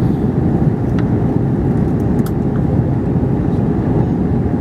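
Airbus A321ceo passenger cabin noise during descent: a steady rumble of engines and airflow with a faint constant hum. A couple of faint clicks about one second and two seconds in.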